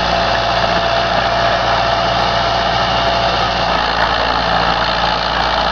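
Preet tractor's diesel engine running steadily, with a thin steady whine alongside that fades out about three and a half seconds in.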